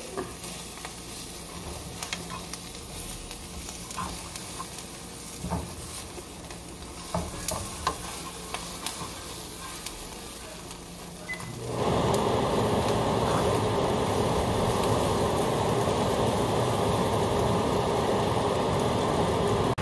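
Spatula and fork scraping and tapping in a skillet over a faint frying sizzle. About twelve seconds in, a much louder steady sizzle sets in as the egg-topped bread is turned onto the hot pan.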